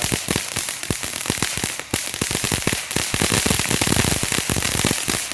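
Firework fountain spraying with a steady hiss and a dense, rapid crackling of small pops, busiest in the second half.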